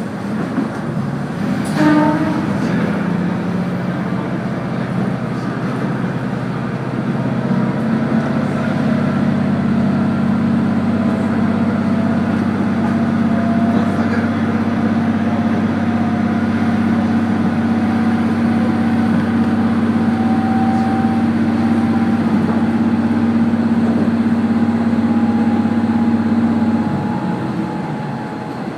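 Diesel railcar running under power: a steady engine drone with a faint whine slowly rising in pitch as the train picks up speed, the engine note dropping away near the end. A short pitched sound about two seconds in.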